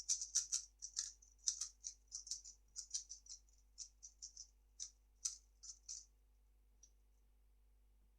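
3x3 speedcube being turned fast: a quick, uneven run of light plastic clacks that stops about six seconds in, followed by one faint click.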